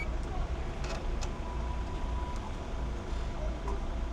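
Street traffic: a steady low rumble of road vehicles going by.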